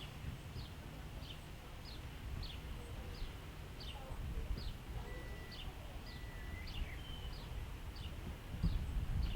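A bird calling: a short falling chirp repeated evenly, roughly twice a second, with two brief steady whistled notes near the middle, over a low background rumble.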